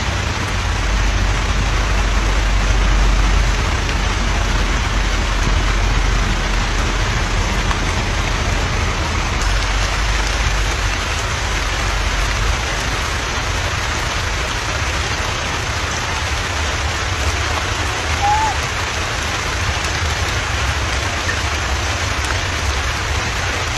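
Steady rain falling, an even hiss with a low rumble beneath it. One brief chirp sounds about three-quarters of the way through.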